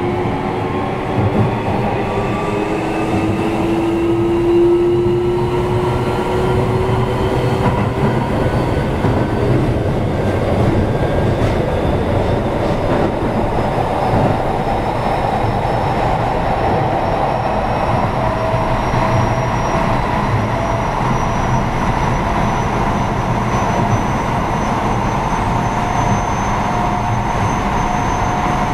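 Keio 7000 series electric train running, heard from inside the passenger car: steady rail and wheel rumble with thin whining tones that slowly rise in pitch as the train picks up speed.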